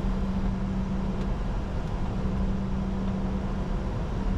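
Steady cockpit noise of a Bombardier Challenger 605 business jet on approach: a constant low rumble and rush of air with a steady hum.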